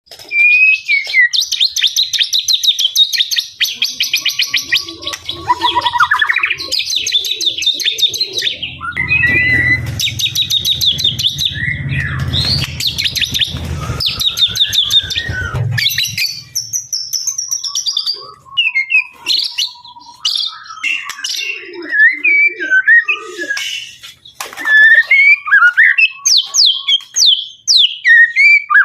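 Male white-rumped shama (murai batu) singing a long, varied song in quick succession: rapid rattling trills, whistled notes that slide up and down, and short chattering phrases. A low rumble runs underneath for several seconds in the middle.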